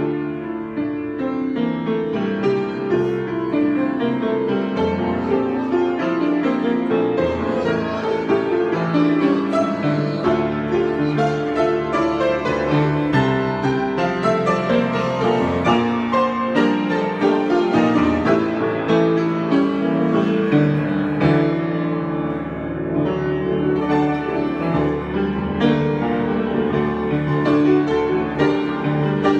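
Solo piano improvisation: a continuous flow of notes and chords, played freely without a break.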